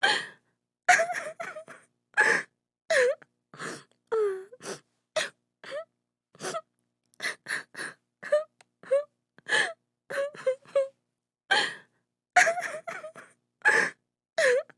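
A woman crying: short broken sobs and gasping breaths, several a second with brief silences between, some with a wavering wail in the voice.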